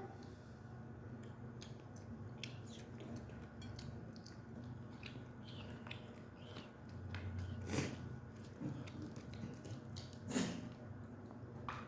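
Quiet chewing of chicken, with scattered small mouth and handling clicks and two slightly louder short sounds about eight and ten and a half seconds in.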